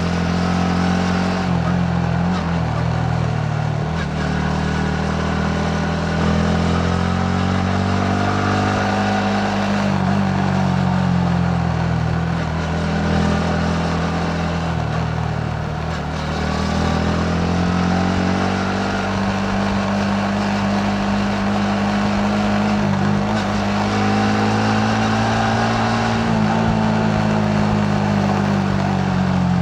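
Yamaha MT-15's 155 cc single-cylinder engine running under way, its pitch rising and easing off several times as the revs change, with road and wind noise.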